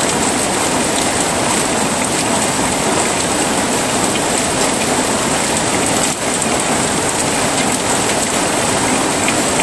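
Heavy rain falling: a steady, dense hiss of downpour with no letup.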